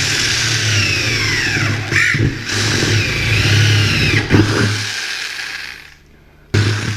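Corded reciprocating saw (Sawzall) cutting through an insulated door, its motor speed rising and falling, with brief dips. It stops about six seconds in, then runs again briefly near the end.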